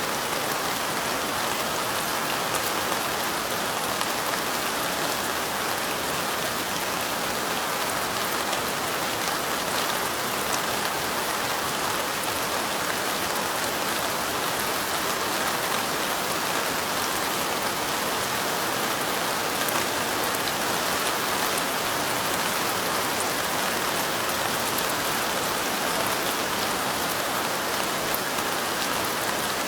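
Steady light rain falling: an even hiss made of many fine drop ticks, unchanging in level.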